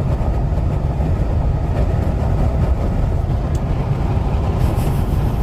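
Steady road rumble and tyre noise inside the cabin of a vehicle driving at speed.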